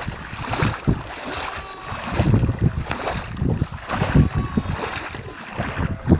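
Gusty wind buffeting the microphone in uneven surges.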